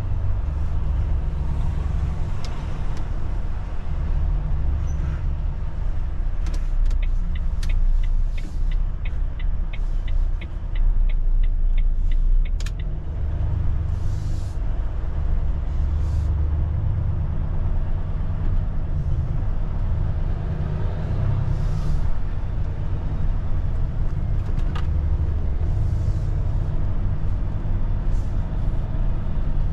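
Low, steady rumble of a Volvo truck's diesel engine running, with a quick, even ticking for about five seconds near the middle.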